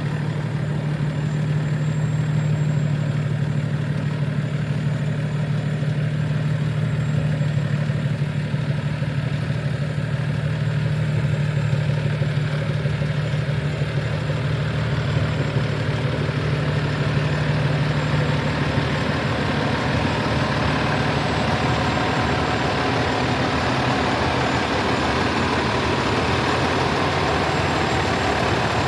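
Cummins ISL9 diesel engine of a 2013 Freightliner 114SD truck idling steadily. About two-thirds through, the low hum fades and a brighter, higher clatter comes up.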